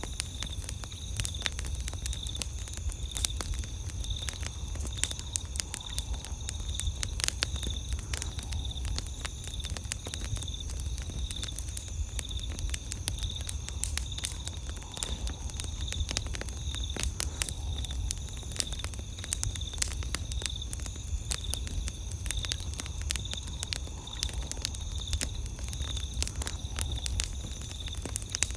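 Campfire wood crackling and popping in dense irregular snaps. Behind it, night insects trill steadily at a high pitch, over a low rumble.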